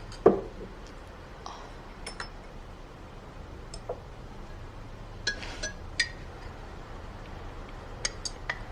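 Tableware at a meal: scattered light clinks of dishes, glass and cutlery, about eight small knocks spread out and bunched near the middle and near the end, over a faint low hum.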